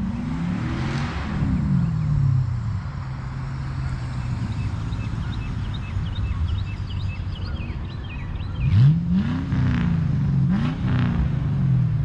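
Cars accelerating past on the road, engine pitch climbing and falling with gear changes: one about a second in, another louder one near the end, over a steady low traffic rumble.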